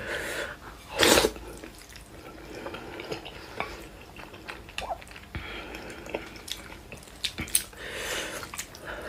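A person eating noodles close to the microphone: wet mouth and chewing sounds with many small clicks, and one louder noisy burst about a second in.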